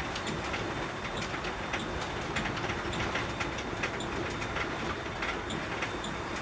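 Container tractor-trailer driving along: steady engine and road noise with frequent loose rattles and clanks, several a second.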